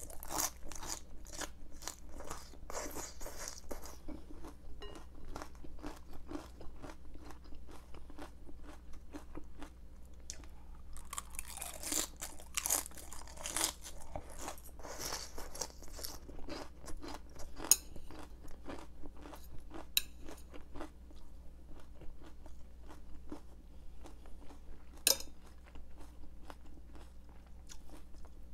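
Raw cabbage being chewed close to the microphone: wet, crisp crunching, bite after bite. It is densest in the first few seconds and again around the middle, thinner later, with a few sharper clicks.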